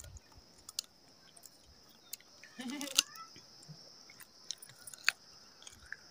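Faint, scattered crunching clicks of a child biting and chewing a piece of fruit, over a steady high-pitched insect drone. A short voice-like call comes about three seconds in.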